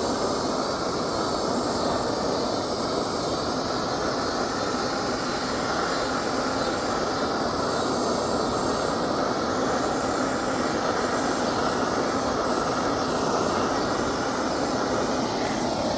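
A handheld torch flame running steadily as it scorches a wooden board, an even, unbroken noise.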